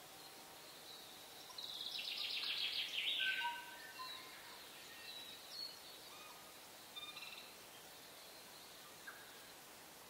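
Wild birds singing over a faint steady hiss: a fast, loud trill of rapid notes about one and a half seconds in lasting about two seconds, scattered short whistled notes, and a shorter trill near the seven-second mark.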